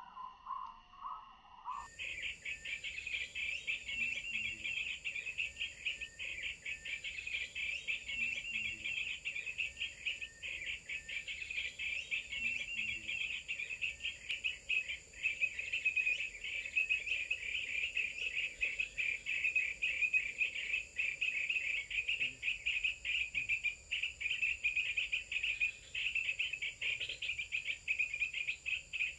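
Continuous dense, rapid insect trilling, like a cricket chorus. It starts abruptly about two seconds in, replacing a lower warbling call.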